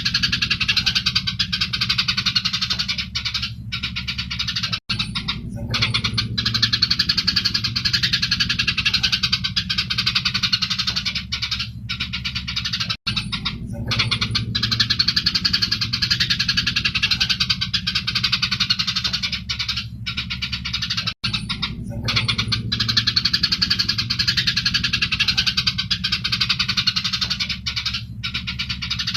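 Eurasian tree sparrows chattering and chirping densely and without pause, the excited calls of sparrows fighting, over a steady low hum. The recording repeats about every eight seconds, cutting out for an instant at each seam.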